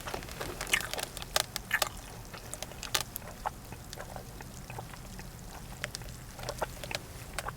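Close-miked mouth sounds of eating and drinking: chewing and swallowing with short wet clicks, busiest in the first three seconds and again near the end.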